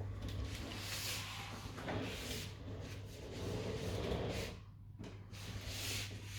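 A cat chattering at birds, the breathy, clicking hunting noise a cat makes when it sees prey it cannot reach. It comes in two spells, with a short break about two-thirds of the way through.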